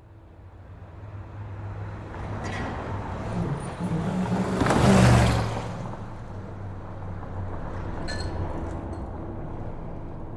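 Muscle car engine approaching at speed on a highway, growing louder to a peak about five seconds in as it passes, then running on at a steadier, lower level.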